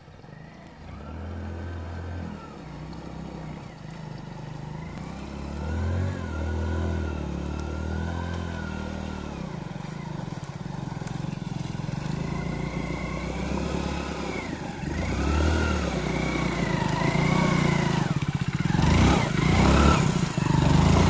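Hero Splendor motorcycle's single-cylinder four-stroke engine running and revving as it is ridden through shallow river water. Its pitch rises and falls with the throttle and it grows louder as it comes closer, with water splashing near the end.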